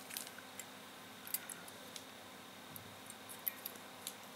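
Faint, irregular light clicks and ticks from handling a soldered circuit board whose long, untrimmed LED leads are being pushed and bent straight by hand.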